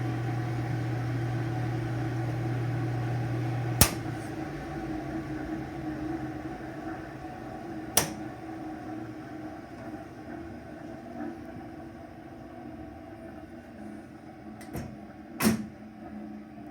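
A phase converter's motor humming, then a sharp click about four seconds in as it is switched off, after which the hum slowly fades as it winds down. Further sharp clicks come about eight seconds in and twice near the end.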